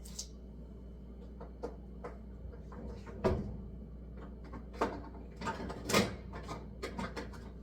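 Scattered clicks and knocks of a dishwasher's racks and door being handled while cleaning tablets are put in, over a low steady hum.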